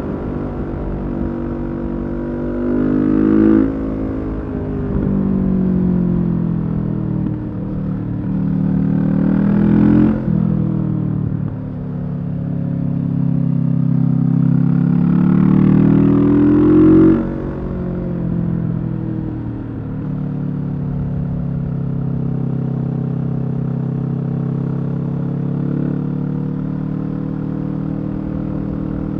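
2020 Kawasaki Z650's parallel-twin engine through a Leo Vince EVO carbon aftermarket exhaust, revving up three times with the pitch climbing, each pull ending with a sharp drop in revs as the throttle closes. For the last ten seconds or so it runs steadily at lower revs.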